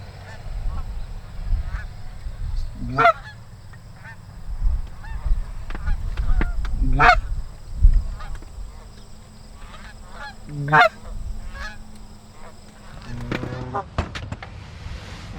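Canada geese honking: many short calls from a flock, with loud single honks about 3, 7 and 11 seconds in and a burst of calls near the end.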